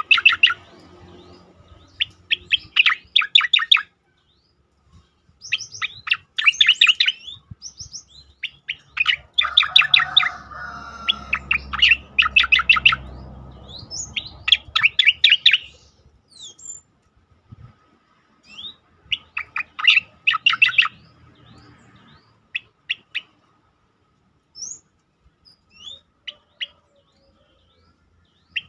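Cicakoreng (striated grassbird) singing its "tembakan" call: fast volleys of sharp, rapid-fire notes, each about a second long, repeated every few seconds with single short chirps in between.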